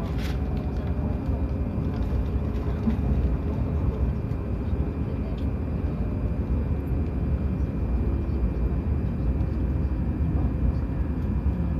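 Steady low rumble and hum of a Hokuriku Shinkansen train heard from inside a passenger car, with a faint steady whine over it and a brief click just after the start.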